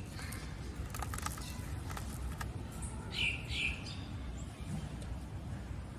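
A bird gives two short chirps about three seconds in. Earlier, a few sharp clicks and crackles come from a clear plastic clamshell box being opened, over a steady low background rumble.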